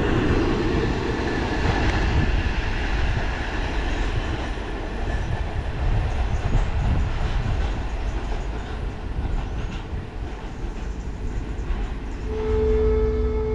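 Container freight train wagons rolling past on the rails, with a steady rumble and wheel clatter that eases as the end of the train draws away. Near the end a steady siren-like tone starts.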